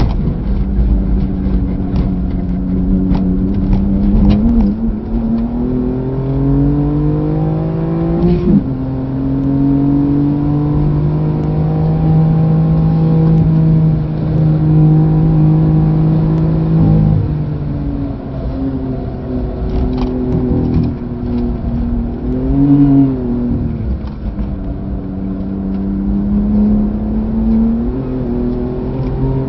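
AC Schnitzer ACL2's twin-turbo straight-six under hard driving, heard from inside the cabin. The revs climb for several seconds, drop sharply with an upshift about eight seconds in and hold high and steady, then fall as the car slows and climb again near the end. Sharp ticks and knocks come over the first few seconds and again about twenty seconds in.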